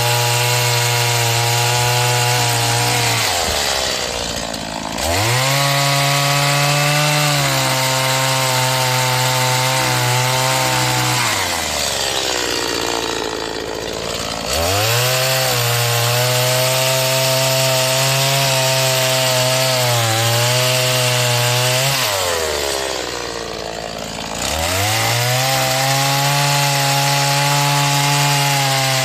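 A new STIHL MS 180 two-stroke chainsaw, being run in, sawing firewood at high revs. It eases off three times, a few seconds in, midway and near the end, and each time revs back up.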